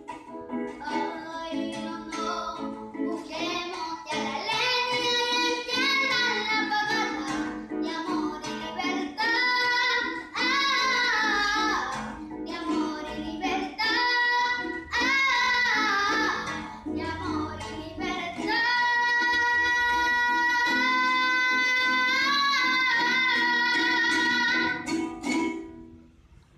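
Female voice singing a stylized llanero song over plucked strings. Near the end she holds one long note, then the music fades out.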